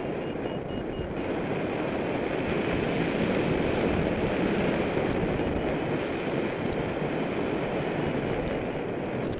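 Airflow rushing over the microphone during a paraglider flight. The paragliding variometer beeps rapidly during the first second and more faintly afterwards; its beeping signals that the glider is climbing.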